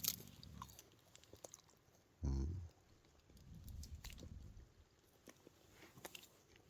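Close-up chewing and crunching of a Kit Kat chocolate wafer bar. A short, low, hum-like voice sound comes about two seconds in.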